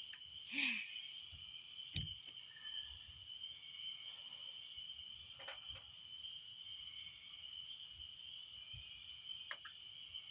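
Steady, high-pitched chorus of night insects such as crickets, with a few faint knocks scattered through it.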